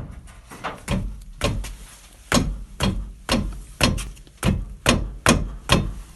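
Rear brake caliper knocking on its guide pin: repeated sharp knocks, about two a second. The guide pins are new, so the knock is suspected to come from wear that has enlarged the pin bore in the caliper bracket.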